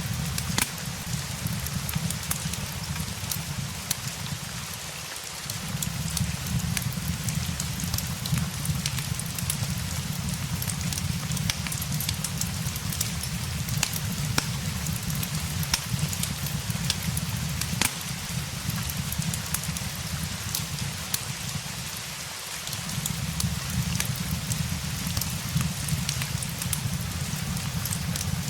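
Steady rain with a crackling fireplace: an even hiss of rain dotted with many sharp pops and ticks, over a low steady rumble that thins out briefly twice, about five seconds in and near twenty-two seconds.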